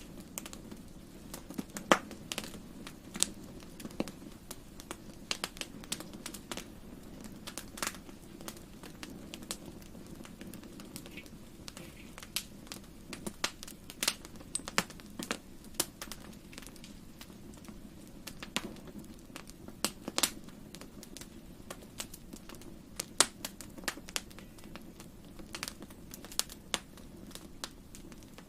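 Wood fire burning in a fireplace, crackling with irregular sharp pops over a low steady rush of the flames; the loudest pops come about two seconds in and near twenty-three seconds in.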